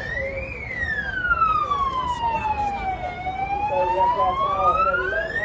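A siren wailing in a slow rise and fall. Its pitch peaks about half a second in, sinks to its lowest about three seconds in, then climbs again to peak at the end.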